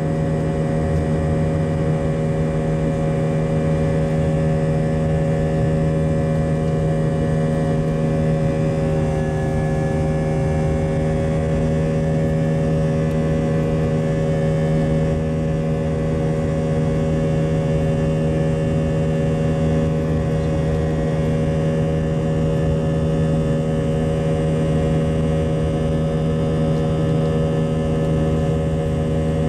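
Airliner's jet engines droning steadily, heard inside the passenger cabin: a constant low hum with several fixed tones over an even rumble.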